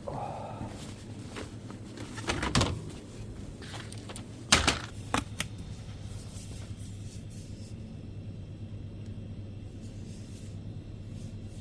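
A few knocks and clatters over a steady low hum of a room, with a cluster about two and a half seconds in and the loudest sharp knock about four and a half seconds in.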